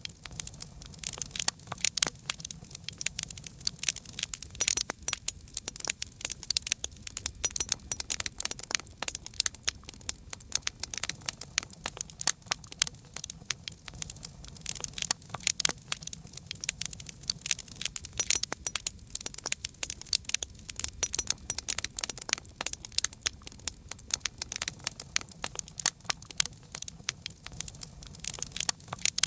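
Campfire crackling: a dense, continuous run of sharp pops and snaps over a faint low rumble.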